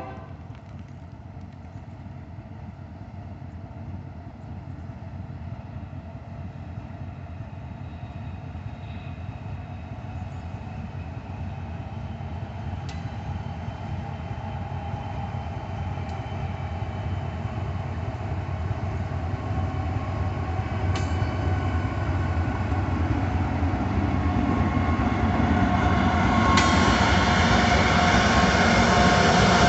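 A train approaching, its low rumble and wheel noise growing steadily louder.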